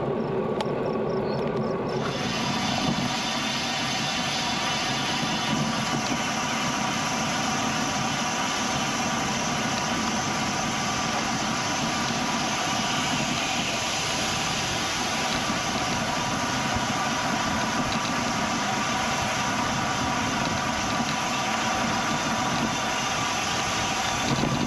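Steady rushing noise of wind on the microphone and bicycle tyres rolling on a paved road while riding. The sound changes abruptly about two seconds in.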